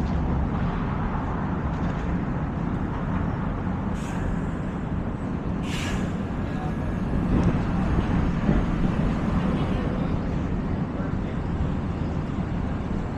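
Busy city street ambience: a steady rumble of traffic with crowd voices mixed in, and two short sharp hisses about four and six seconds in.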